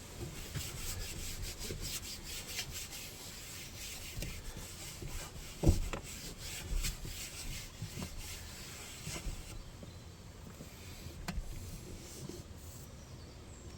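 Irregular rustling and crackling of dry material with scattered clicks, and one heavier thump a little before the middle.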